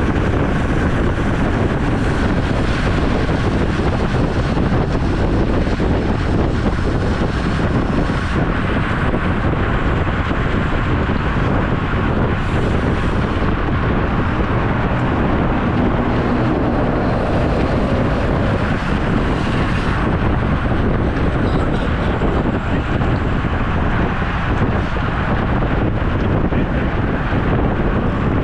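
Steady wind noise rushing over the microphone while riding a road bike, with no speech.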